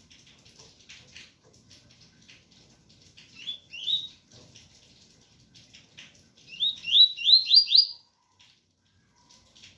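Double-collared seedeater (coleiro) singing its 'tui-tui' song: two rising whistled notes, then after a pause a quick run of five rising notes, each a little higher than the one before, over a steady patter of rain.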